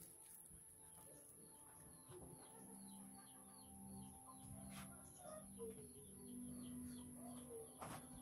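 Near silence, with faint bird chirps repeating in the background and a low, steady hum.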